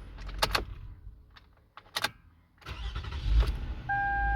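The 2008 Toyota Sienna's 3.5-litre V6 dies away, a few sharp clicks follow, then it cranks and starts about three seconds in and settles to a steady idle.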